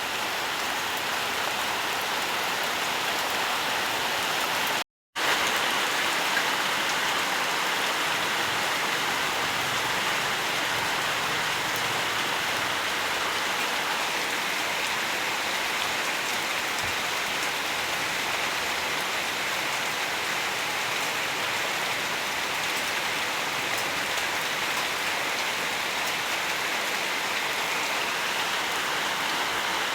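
Steady rainfall, an even hiss of drops, with a brief total dropout to silence about five seconds in.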